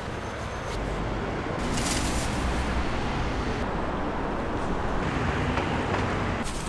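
Steady street traffic noise, the hum of passing vehicles.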